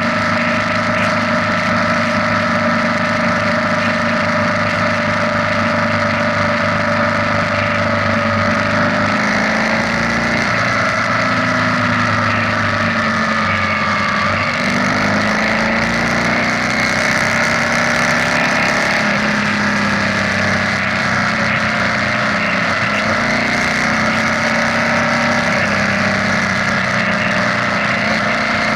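BMW R nineT's boxer twin running under way at a steady cruise, its pitch rising and falling with throttle changes through the middle before settling steady again.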